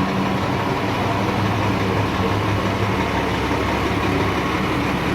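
Scania R 440 truck's diesel engine idling through a modified 'singing' exhaust, a steady deep drone.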